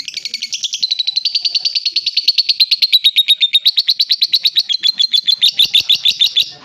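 Young lovebird giving a loud, long, unbroken run of rapid chirps, roughly ten a second, which stops abruptly near the end.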